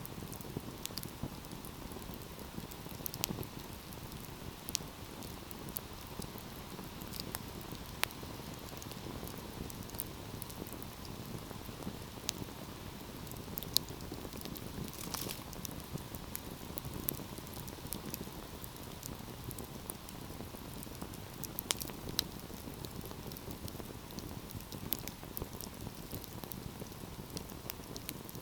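Fire burning in a fireplace: a steady low hiss and rustle with scattered sharp crackles and pops, and a louder snap every few seconds.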